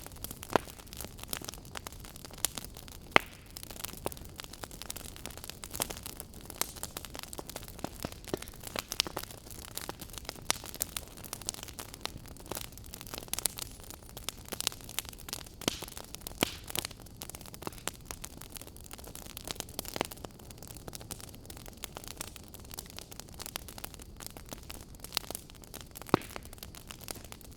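Fire crackling: irregular sharp pops and snaps, a few louder than the rest, over a steady soft hiss.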